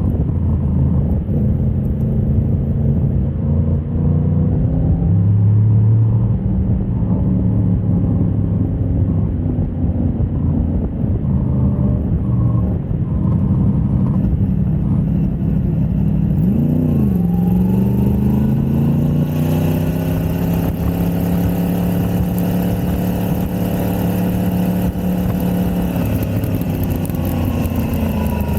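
Motorcycle engine running hard on a race track, its pitch rising and falling with throttle and gear changes. A quick sharp rev spike comes about two-thirds of the way in, then a long steady pull, with wind rush growing over it.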